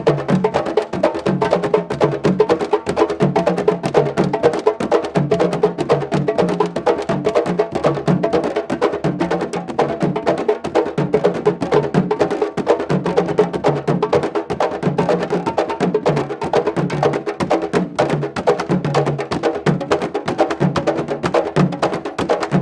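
Candombe drumming: a dense run of rapid stick strikes with deep drum tones repeating in a steady rhythm underneath.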